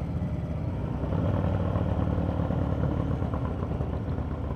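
Harley-Davidson V-twin motorcycle engine running steadily at low road speed.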